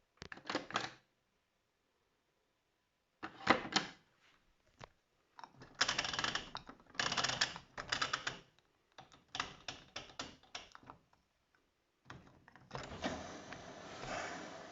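Zanussi Jetsystem Turbodry ZWD 1000 washer-dryer: several bursts of rapid, typewriter-like clicking with short gaps between them. About twelve seconds in, a steady running sound with a low hum begins.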